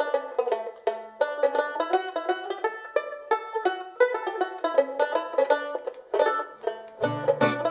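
Music on a plucked string instrument with a banjo-like ring, playing a quick melody of short plucked notes. Low bass notes come in near the end.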